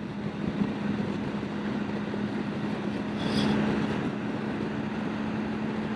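Steady riding noise from the BMW GS Adventure's boxer-twin engine humming at an even pitch under wind rush, swelling slightly about three seconds in.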